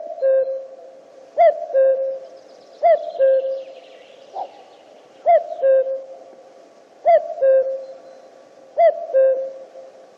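Male common cuckoo (Cuculus canorus) calling its 'cu-coo', a higher note falling to a lower one, six times at roughly one-and-a-half to two-second intervals, with a single stray note near the middle.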